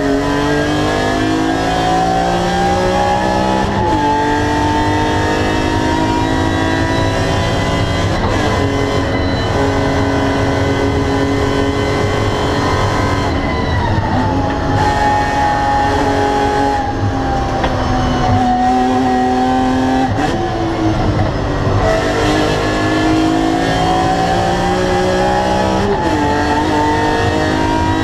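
BMW E46 M3 CSL's S54 straight-six with its carbon-fibre airbox, heard from inside the cabin, pulling hard through the gears: the engine note climbs and drops sharply at upshifts about four and eight seconds in and again near the end. In the middle the revs ease off and fall for a few seconds before climbing again.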